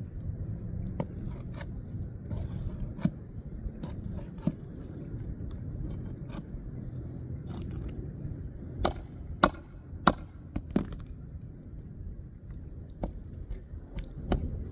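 Flat pry bar being tapped to work a stubborn roofing nail loose under an asphalt shingle: scattered scrapes and light knocks, then a run of about four sharp metal-on-metal strikes with a high ringing tone a little past the middle.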